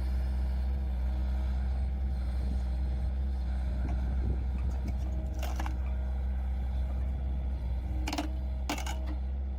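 Engine of a wood-processing machine running steadily at a constant speed, with a few sharp clicks or knocks about halfway through and near the end.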